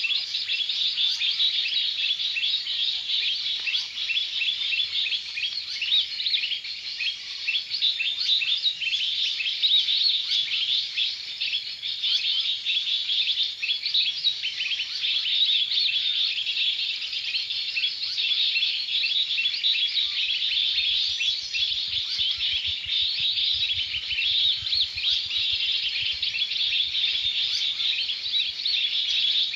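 A dense, continuous chorus of many small birds chirping rapidly and high-pitched.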